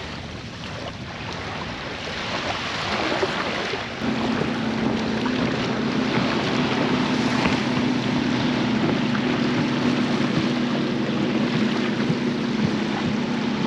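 Wind and water noise, then about four seconds in a boat motor comes on and runs steadily with a low hum.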